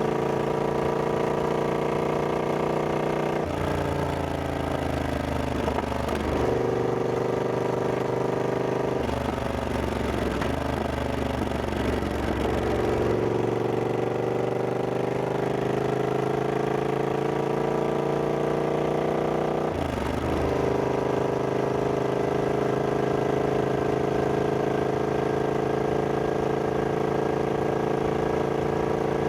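Triumph Scrambler 1200X's 1200 cc parallel-twin engine running under way. Its note is steady for long stretches with pitch slowly drifting, broken several times by brief changes in pitch, about three seconds in, around a third of the way through and about two-thirds through.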